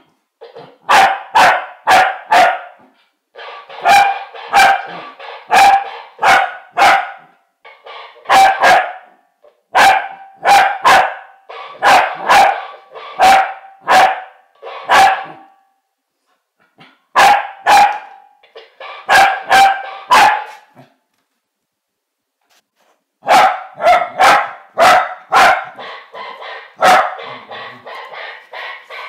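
Corgi barking in volleys of sharp, loud barks, three to five at a time, with short pauses between volleys. There is a longer break about two-thirds of the way through.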